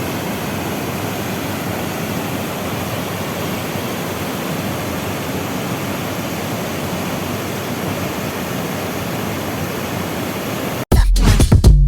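Waterfall: a steady rush of falling water. Near the end it cuts off abruptly and electronic music with a drum-machine beat starts.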